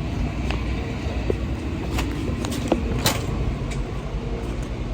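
Box truck's engine running with a steady low rumble, with a few light clicks and knocks over it.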